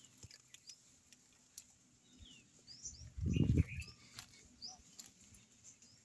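Small birds chirping: short, quick rising chirps repeated every second or so. A brief, loud, low muffled burst of noise comes a little over three seconds in.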